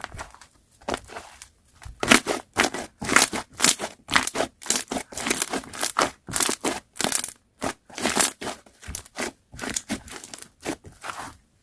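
Hands working a slime, a run of crackly squishes. They are soft for the first two seconds, then louder and faster at about two to three a second.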